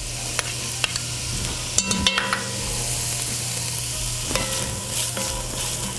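Chopped onion and garlic sizzling steadily in hot coconut oil in a cast iron pot as they are stirred, with a few sharp utensil clinks, a cluster of them about two seconds in.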